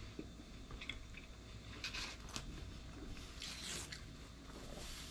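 Faint chewing of a mouthful of thick, crispy Detroit-style pizza, with a few irregular crunches of the crust.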